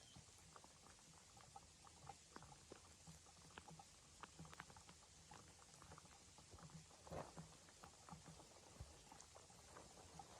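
Near silence, with faint, irregular small ticks and clicks scattered through it and a slightly stronger cluster about seven seconds in.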